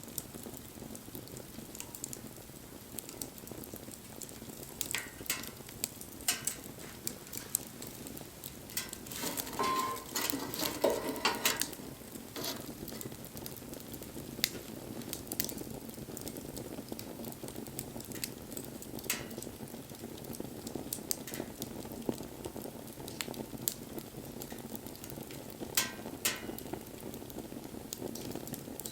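Wood fire burning, with a steady hiss and scattered sharp crackles and pops, thickening into a burst of crackling about ten seconds in.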